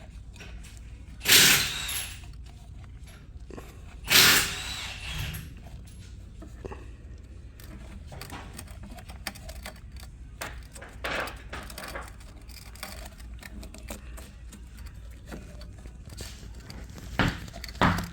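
Small metal and plastic parts of an oil filter housing and hand tools being handled. There are two loud clacks, about a second and about four seconds in, then light scattered clicks and scrapes.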